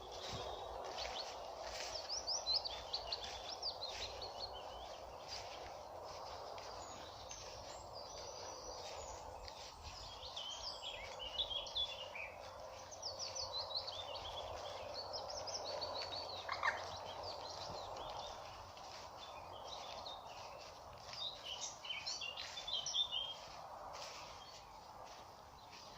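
Wild birds singing in short, quick bursts of chirping song, three main bouts, over a steady hum of background noise.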